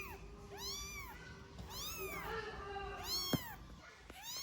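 Tiny kitten mewing over and over, high calls about once a second, each rising and then falling in pitch. A short sharp click sounds once, past the middle.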